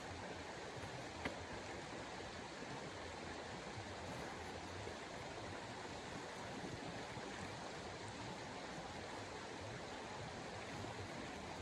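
Steady rushing hiss of snowstorm wind, with a single small click about a second in.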